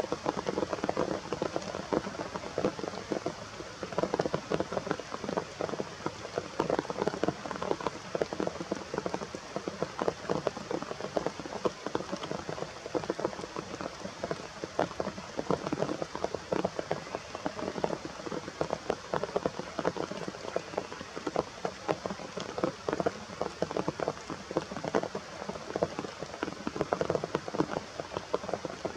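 Rain falling steadily, a dense patter of drops striking close by.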